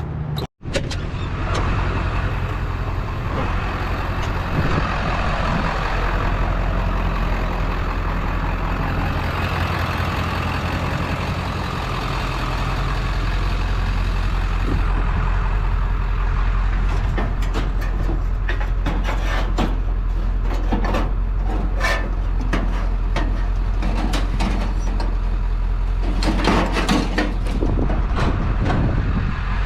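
Truck running: a steady low engine drone, with scattered rattles and knocks over the second half.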